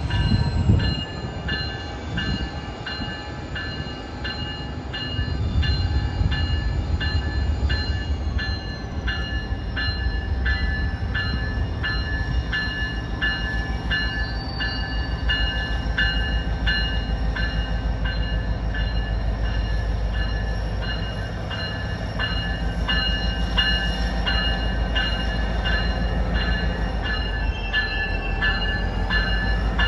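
A train passing close by with a heavy, steady rumble. Over it, a high ringing pulses in a regular beat about one and a half times a second.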